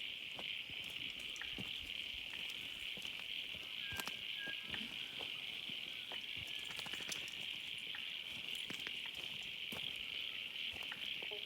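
Steady, shrill chorus of calling animals in the bush after heavy rain, with scattered light clicks and taps throughout.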